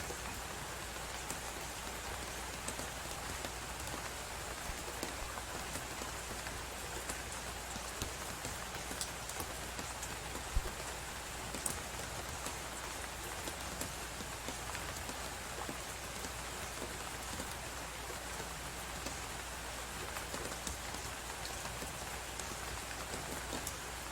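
Blizzard and fireplace ambience: a steady hiss of wind-driven snow with small scattered crackles and pops from a wood fire, one pop a little sharper about halfway through.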